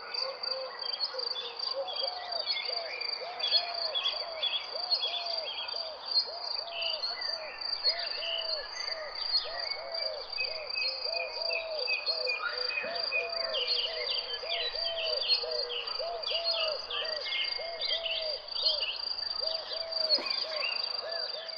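Birds chirping and calling over a steady, high-pitched insect trill, with a low arched call repeating about twice a second throughout.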